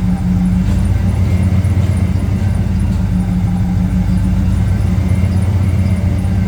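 Chevrolet 454 SS pickup's 7.4-litre big-block V8 running at a steady idle, a low even engine note with no revving.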